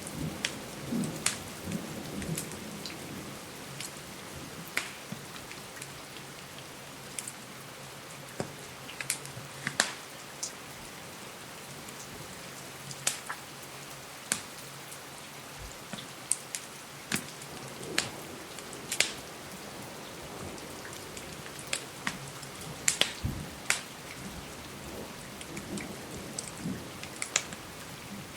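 Steady rain with the irregular sharp crackles and pops of a wood fire burning in a fireplace.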